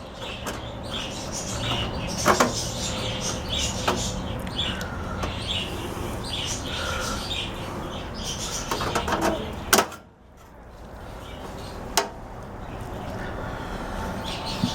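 Sheet metal of a microwave oven's underside being cut and bent with pliers to open the turntable-motor access cover: short metallic squeaks and scraping with a few sharp clicks.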